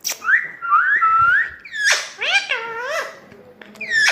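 Pet parrot giving a run of whistled calls that slide up and down in pitch, several in quick succession.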